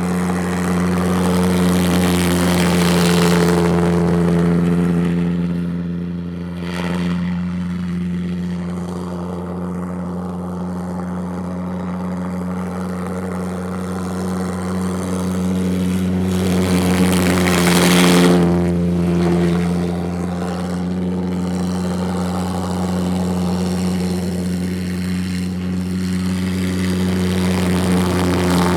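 Twin Viper pulsejet engines running on diesel, a loud steady drone that holds one low pitch throughout. It swells with a rushing hiss a few times as the kart drifts past, loudest about 18 seconds in.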